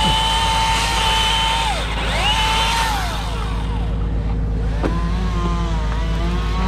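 Small engine, most likely a chainsaw, revving up to full speed, holding, dropping back, then revving briefly again, over a steady low engine hum.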